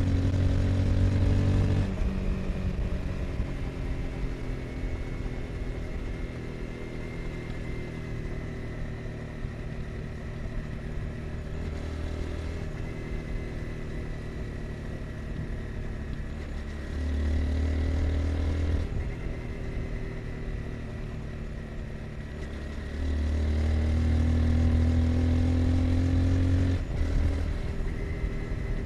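Honda CBR 250R's single-cylinder engine under way. It alternates between loud throttle-on pulls, near the start, about two-thirds of the way in and for several seconds near the end with the pitch climbing, and longer quieter stretches off the throttle between them.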